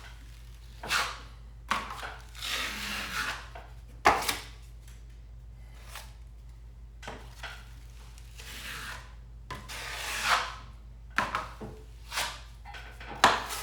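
Steel drywall knife spreading and scraping joint compound over a ceiling patch in irregular swiping strokes, each lasting about half a second to a second, with a few sharp clicks in between.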